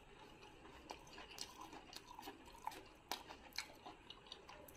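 Faint chewing of a bite of fried corn dog with a crisp batter crust: scattered, irregular little crunches and clicks.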